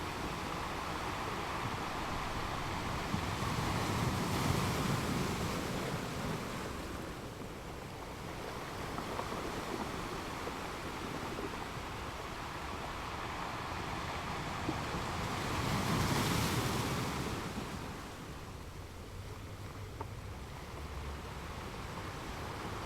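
Ocean waves breaking on a beach: two waves wash in, a few seconds in and again about two-thirds of the way through, each swelling and then fading back into a steady surf hiss.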